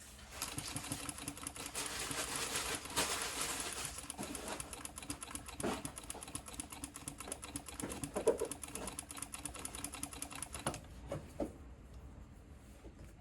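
Sewing machine running fast and steadily, stitching binding onto fabric through a binder attachment, then stopping about 11 seconds in; a few light knocks follow.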